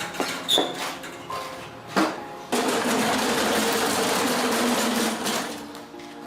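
A few sharp knocks, then a tool running with a steady mechanical buzz for about three seconds before dying away, over background music.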